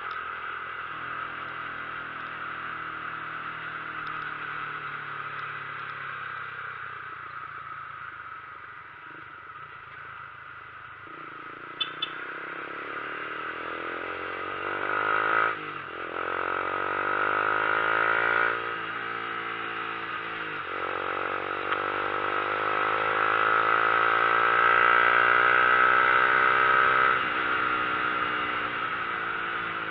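Vehicle engine running steadily, then accelerating through the gears: the pitch climbs and drops back at each of three gear changes, then climbs for a long stretch. Wind and road noise rise with the speed.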